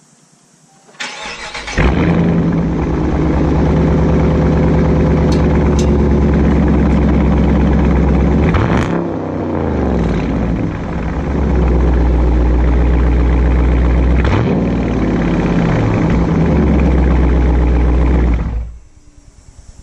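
Dodge Charger V8 with its mufflers deleted, heard from underneath the car: it starts about a second in and runs loud and steady, its pitch rising and falling briefly twice as the throttle is blipped, then shuts off suddenly near the end.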